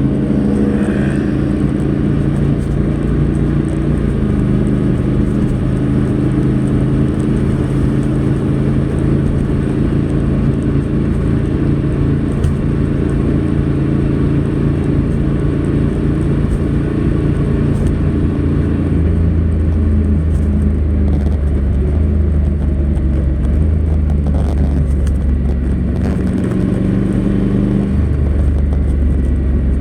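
Honda NC700X's 670 cc parallel-twin engine running through its stock exhaust. The engine note holds steady for a while, then steps down and back up in pitch several times in the second half.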